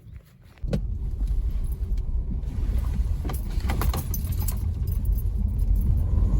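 A car on the road: a steady low rumble of engine and road noise that starts abruptly about half a second in, with a few light clicks and rattles over it.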